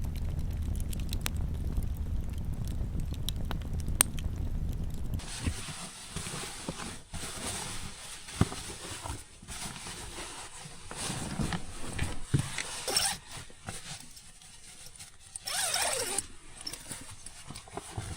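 Wind rumbling on the microphone over a crackling campfire with a few sharp pops. About five seconds in this cuts to scattered rustling and knocks of gear being handled.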